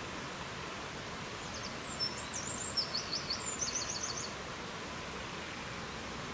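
Steady rushing wind noise, with a small songbird singing one short phrase of quick high notes and trills starting a little under two seconds in and ending after about four seconds.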